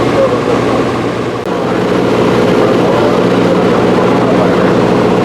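Drag-racing truck engine running loud and steady, with a brief dip in level about a second and a half in.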